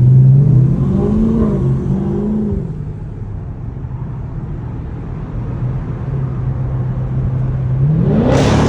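Dodge Charger Scat Pack's 6.4-litre 392 HEMI V8 with its mid-mufflers deleted: two quick revs, then settling to a steady idle, then revving up again near the end.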